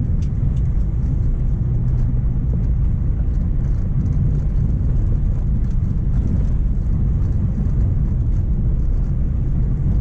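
Mk1 Renault Clio driving steadily, its engine and tyres making a continuous low rumble, with faint light ticks over the top.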